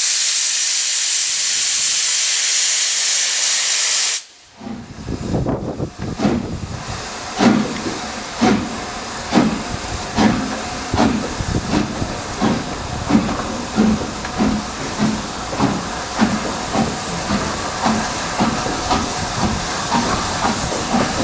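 Steam locomotive: a loud, steady hiss of escaping steam cuts off abruptly about four seconds in. After a brief lull the locomotive's exhaust beats begin, about one a second and slowly quickening, as it gets under way.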